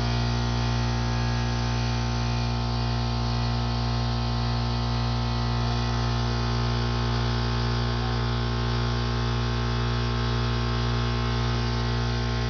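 Steady electrical machine hum from a homemade CNC plasma cutting setup: a strong low drone with many fixed tones above it, unchanging throughout.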